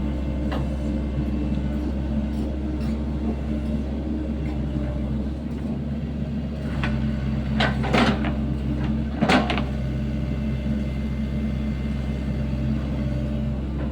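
Sany SY75C mini excavator's diesel engine running steadily while digging, with two short knocks a little past the middle.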